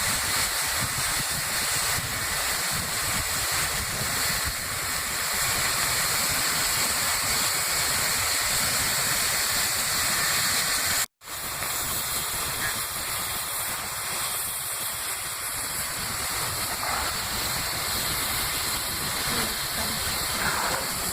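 Steady hiss of steam from the Peppercorn A1 4-6-2 Pacific steam locomotive Tornado, cutting out for a split second about halfway through.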